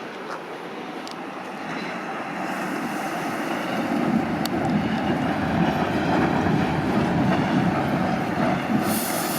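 A train running past on the rails, growing louder over the first few seconds and then holding steady, with a few sharp clicks from the wheels and track.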